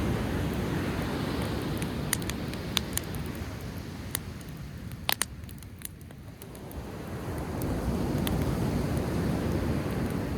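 Surf washing up on the shore, easing off about six seconds in and building again, with a driftwood fire crackling: several sharp pops in the middle, one of them a quick double pop.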